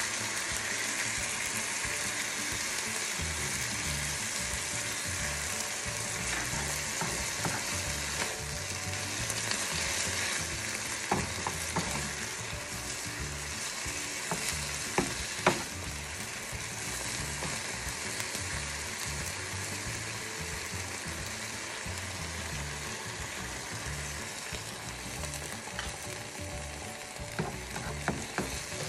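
Chicken pieces and chopped onion sizzling in a nonstick frying pan, stirred with a plastic spatula that knocks and scrapes against the pan a few times, with a small cluster of clicks near the end.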